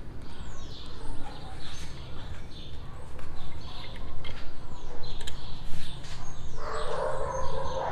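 Small birds chirping, with quick falling high chirps about a second and a half and five and a half seconds in, over scattered light clicks and knocks. Near the end a steady whine starts up and holds.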